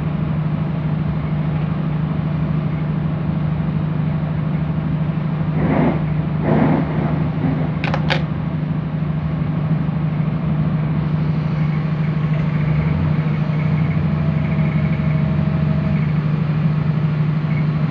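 Diesel multiple-unit train running, heard from inside the passenger carriage: a steady low engine hum under the rumble of wheels on the track. Two short swells of noise come about six seconds in, and two sharp clicks about eight seconds in.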